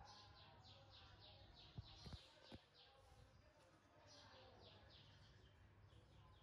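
Faint bird chirping: rapid runs of short, high, slightly falling chirps, about six a second, with a few soft knocks about two seconds in.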